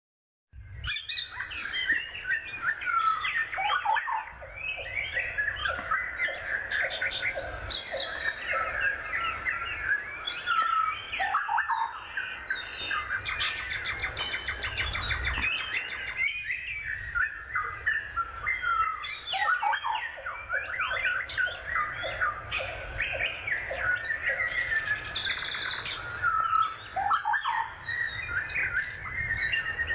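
Many birds chirping and singing at once in a dense, continuous chorus of overlapping chirps and trills. A short rising call recurs every seven or eight seconds. A steady low rumble runs underneath.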